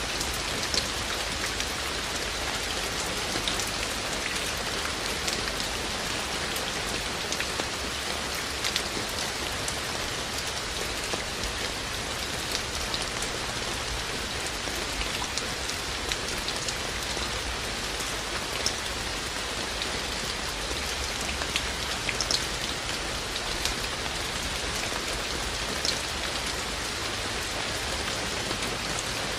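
Steady rain falling, an even hiss with scattered sharp clicks of individual drops striking close by.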